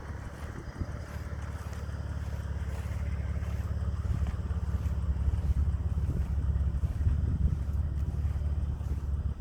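Mitsubishi GTO Twin Turbo's twin-turbo V6 idling: a steady low rumble that grows louder over the first few seconds.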